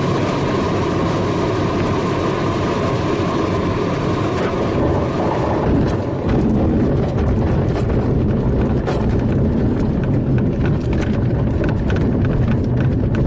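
Airflow rushing past a DG-300 glider's cockpit on final approach. About six seconds in the glider touches down on grass, tail skid first and then the main wheel sagging on, and rolls out with a rattling rumble as the grass beats against the landing gear.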